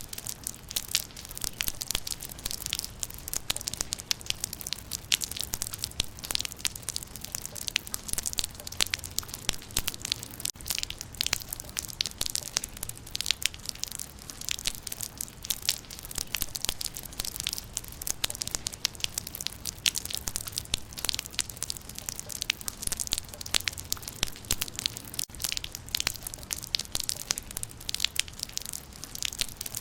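Raindrops pattering on leaves: dense, uneven ticks and splats with no let-up, over a faint low rumble.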